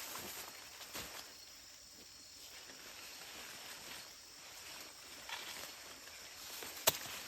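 Outdoor insect hiss, with faint rustling and a few sharp clicks or snaps. The loudest click comes near the end.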